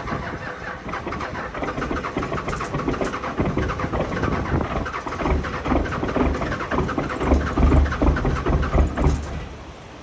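P-pump Cummins diesel being cranked on the starter in the cold without a grid heater: a fast, even chugging with a few heavier low chuffs near the end as it tries to fire. The cranking then stops suddenly without the engine catching, a hard cold start.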